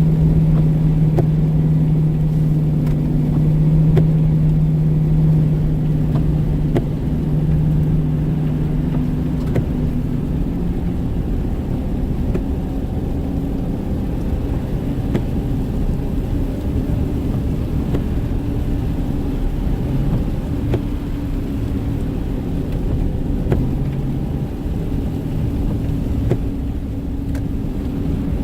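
Car driving: steady engine hum over low road rumble. The engine note shifts about ten seconds in, from a lower hum to a higher one.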